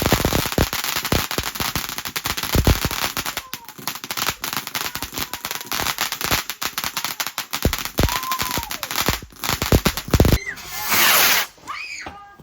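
Fireworks going off: a dense, rapid string of crackling bangs for about ten seconds, then a loud hissing burst near the end.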